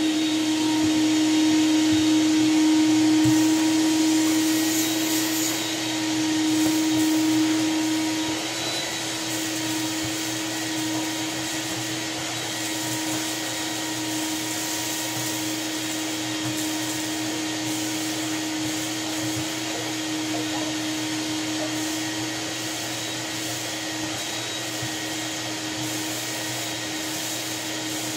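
Shop vac running steadily, a constant motor whine over a rushing of air, somewhat louder for the first several seconds and then settling a little lower.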